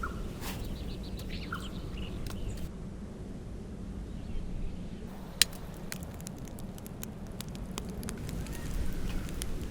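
Campfire crackling: scattered sharp snaps and pops over a steady low background noise.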